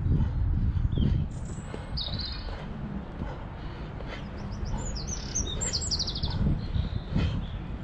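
Small birds chirping, with quick high trills about two seconds in and again around five to six seconds in, over a steady low rumble.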